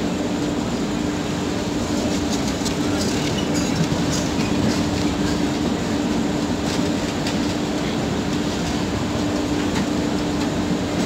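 The Sanghamitra Express's LHB coaches rolling past along the platform: a steady rumble of wheels on rail over a constant low hum, with a run of clicks over the rail joints a few seconds in.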